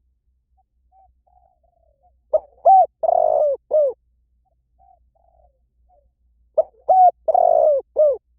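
Spotted dove cooing: two song phrases about four seconds apart. Each is a few faint notes followed by a run of four loud, low coos.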